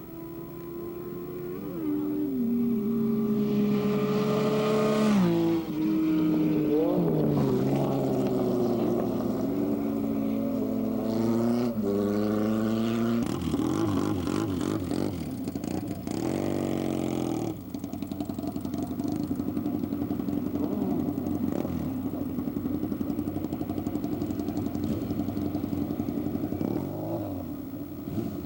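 Motorcycle engines revving and accelerating through the gears, the pitch climbing and dropping at each shift. After about seventeen seconds a steadier engine note holds.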